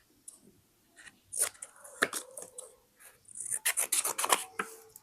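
Paper being handled for scrapbooking: scattered short rustles and taps, then a quick run of about eight crisp strokes in the last second and a half.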